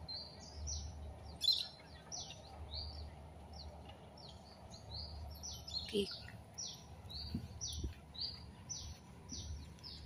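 A bird calling over and over with short, high chirps, about two a second, some notes flat and some dropping in pitch, over a low background rumble.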